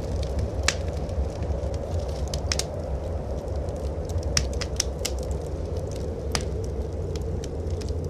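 Wood fire crackling in a fireplace, with sharp pops scattered irregularly, over a steady low rumble of blizzard wind.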